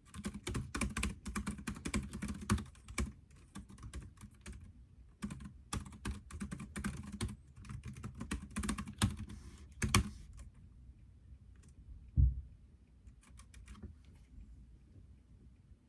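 Typing on a computer keyboard: quick runs of key clicks in bursts with short pauses, thinning out to a few keystrokes near the end. A single dull thump about twelve seconds in is the loudest sound.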